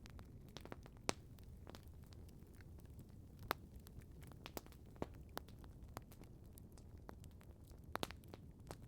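Wood campfire crackling: irregular sharp pops and snaps, several a second, with louder snaps about one second in, about three and a half seconds in, and near the end, over a low steady background noise.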